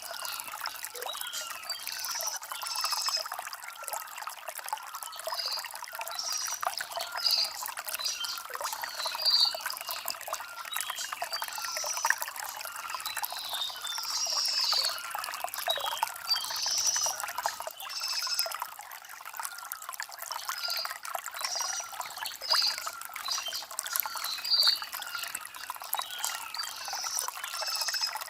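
Shallow stream trickling and burbling over stones, with birds chirping briefly every second or two above the water.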